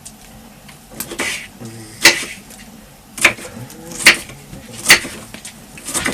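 Sharp knocks and clinks of food being put into clay pots, about one a second.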